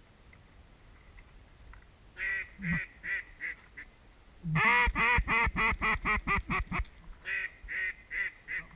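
Duck quacking: a few spaced quacks about two seconds in, then a fast run of about ten loud quacks, then a few more near the end.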